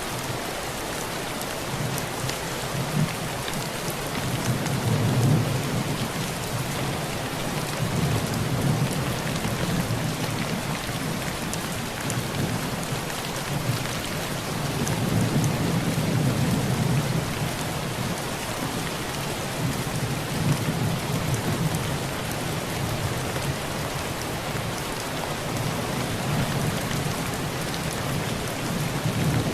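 Heavy rain pouring on a tin roof as a steady dense patter, with low thunder rolling in and fading away several times.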